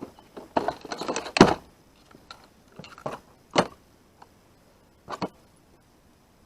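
Handling noises as a hook is worked out of a caught catfish: irregular clicks and knocks with some rustling. The sharpest knocks come about one and a half, three and a half and five seconds in.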